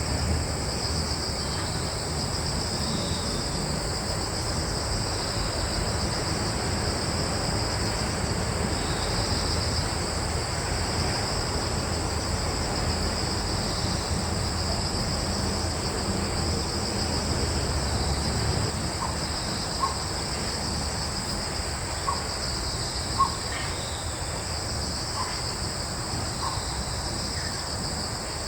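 Crickets chirping in a steady, shrill chorus with a low rumble of background noise underneath that eases off after about 18 seconds. A handful of short, faint chirps come in the second half.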